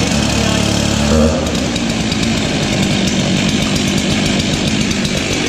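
Two-stroke chainsaw engine just started and running at a steady fast idle. About a second in, a short blip drops it to a rougher, lower idle.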